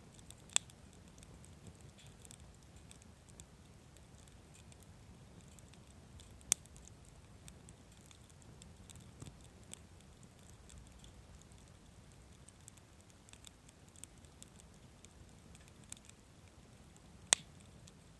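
Wood campfire burning quietly, with scattered crackles and three sharp pops from the burning firewood, about half a second in, six seconds in, and near the end.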